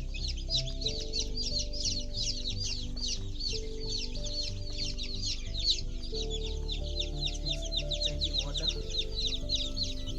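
A flock of about a hundred day-old chicks peeping all together: a dense, continuous chorus of short, high, falling cheeps.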